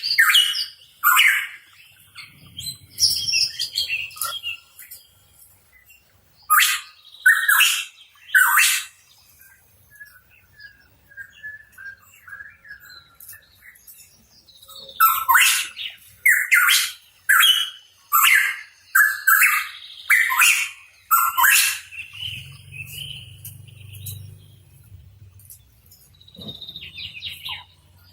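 Hooded pitohui calling: clusters of short, loud notes with pauses between, at the start, around the middle and for several seconds after the middle. A softer, thin warbling runs in the gaps.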